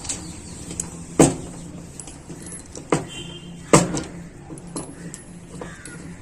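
Metal tools and bolts clinking while the shipping transit bolts are unscrewed from a washing machine, with three louder metallic knocks about a second in, near three seconds and just before four seconds.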